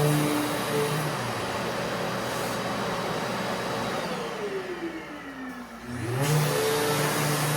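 SurfPrep sander and Festool dust extractor running together with a steady whir and hum. About four seconds in, a motor winds down in pitch and the noise dips, then it spins back up just after six seconds.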